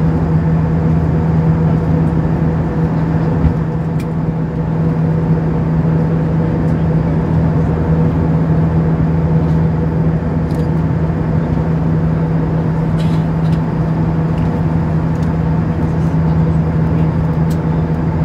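Steady cabin drone inside an Airbus A320-232 with its IAE V2500 jet engines running: even engine and airflow noise with a constant low hum and fainter higher tones, and a few faint clicks.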